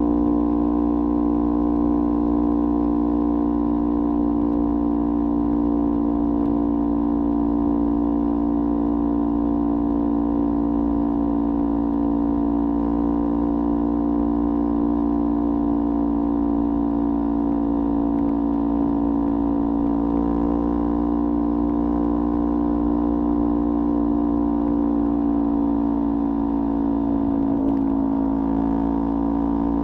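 Kawasaki Ninja 400's parallel-twin engine running through a LeoVince aftermarket exhaust, holding a steady, even pitch, with a brief waver in pitch near the end.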